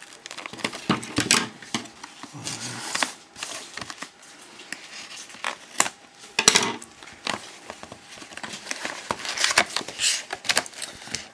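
Crinkling, tearing and rustling of packaging as a sealed box of trading cards is unwrapped and opened, with irregular sharp clicks and scratchy strokes of cardboard and plastic being handled.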